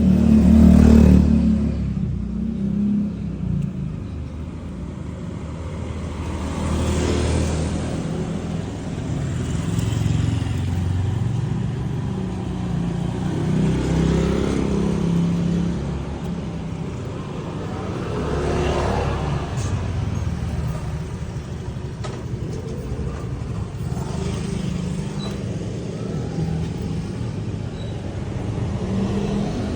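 Road traffic going past: a steady low engine rumble, with vehicles swelling past one after another every few seconds.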